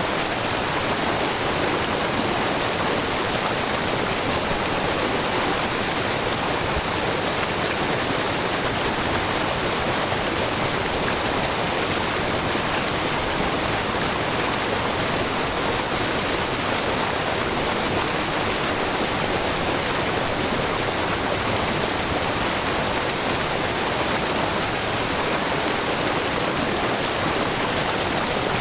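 Shiraito Falls, a wide, low waterfall of spring water falling from a rock face into a brook, making a steady, even rush with no breaks or changes.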